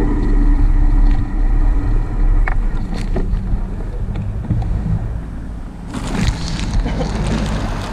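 Wind buffeting the microphone of a camera on a moving bicycle, a heavy, steady rumble. A wider hiss joins it about six seconds in.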